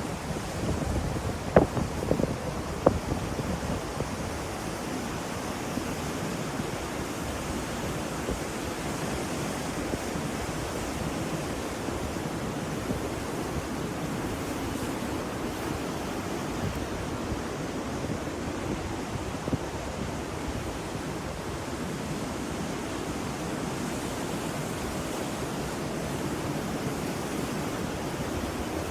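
Ocean waves washing steadily, with wind buffeting the microphone. A few sharp bumps about two seconds in.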